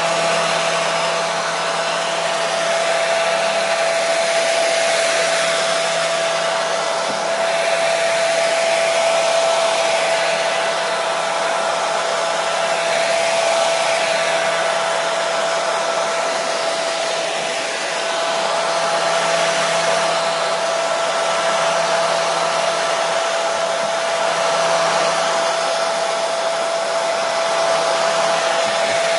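Hair dryer running continuously: a steady airy rush with a constant whine from the motor and fan, swelling and easing slightly every few seconds.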